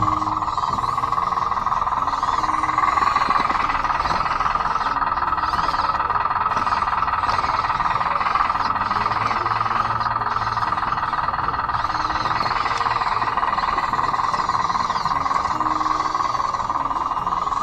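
Converted Bruder D5 RC bulldozer running steadily, its electric drive motors and gearboxes giving an even whine with track noise and no letup.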